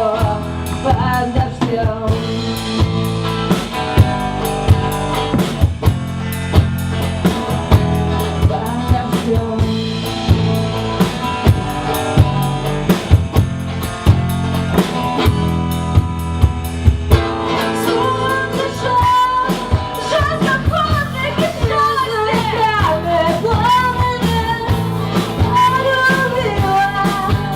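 Rock song in an instrumental passage: a drum kit keeps a steady beat over bass and guitar, and a wavering lead melody comes in about two-thirds of the way through.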